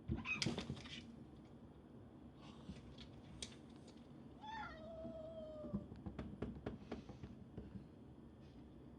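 Domestic cat meowing: one long meow about halfway through that slides down in pitch, after a loud short sound right at the start, with a few light clicks and taps in the second half.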